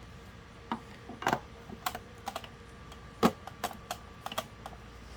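Irregular clicks and knocks of a screwdriver and the plastic fan housing being handled while screws are taken out of an electric fan. The loudest knock comes a little past three seconds in.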